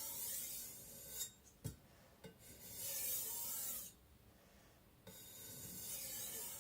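Steel blade of an IKEA Vardagen Chinese cleaver drawn across a wet whetstone in three long, light strokes, each a gritty hiss lasting about a second and a half. Between strokes there is a short knock. These are edge-only finishing strokes with almost no pressure, raising a micro bevel.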